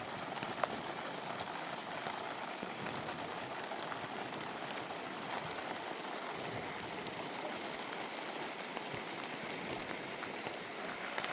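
Steady rain falling, an even hiss of drops with a few sharper individual drop ticks.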